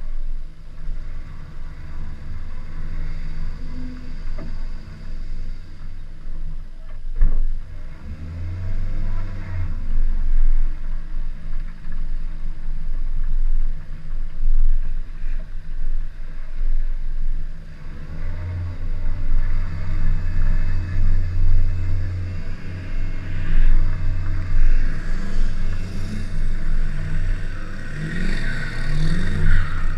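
Chevy Cavalier being driven hard, its engine running and revving with a heavy low rumble, rising and falling in pitch near the end.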